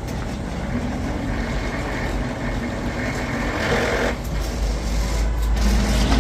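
An engine running steadily, with a low rumble that grows louder toward the end and a brief hiss about three and a half seconds in.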